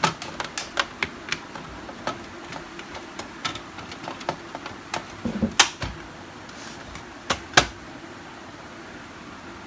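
Irregular plastic clicks and knocks from a Canon LBP6030 laser printer's casing being handled, with a few louder knocks about halfway through and a pair a little later.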